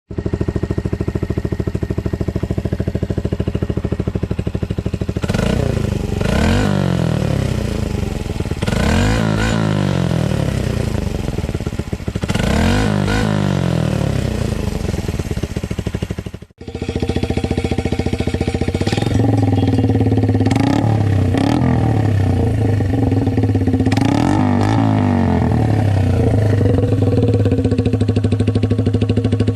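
Suzuki GN125's single-cylinder four-stroke engine idling and revved several times through an open exhaust, first heard through a bullet muffler with its baffle removed and then through a straight pipe. The two takes are split by a sudden cut about sixteen seconds in.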